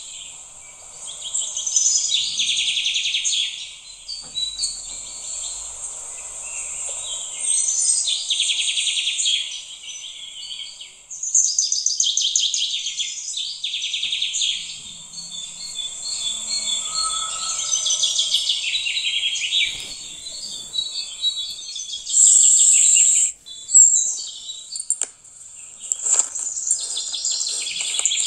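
Birds chirping in rapid, high trills, in repeated phrases of a second or two.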